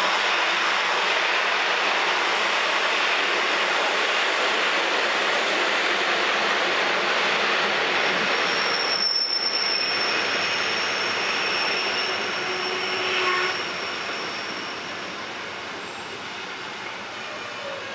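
Rhaetian Railway metre-gauge train running on the rails, a steady loud rush of wheel and track noise. A high, steady wheel squeal comes in about halfway, and the noise eases off a few seconds later.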